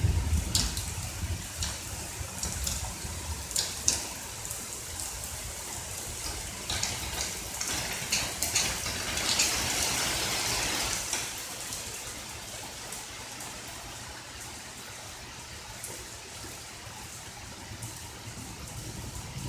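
Rain falling, with scattered sharp drops splashing close by and a heavier rush of rain swelling in the middle. A low rumble of thunder fades out in the first couple of seconds.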